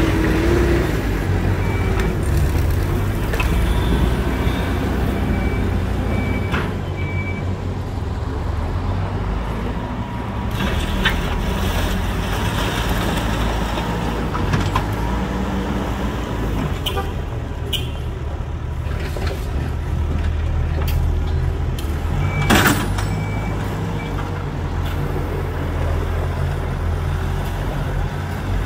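Diesel engine of a Hidromek 102S backhoe loader running steadily at work, with scattered clanks and one loud knock about 22 seconds in. Short high beeps sound a few times near the start and again around the knock.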